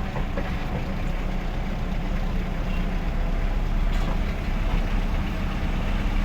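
Delivery truck's engine running steadily, with a low rumble and a haze of road noise.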